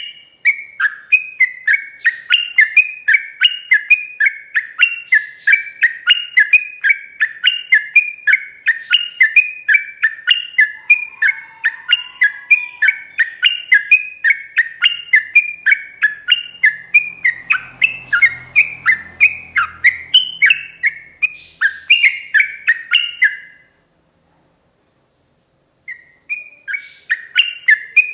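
Sooty-headed bulbul singing a long, rapid 'ropel' run: loud, short whistled notes repeated in a fast unbroken string. The run breaks off about 23 seconds in and resumes near the end.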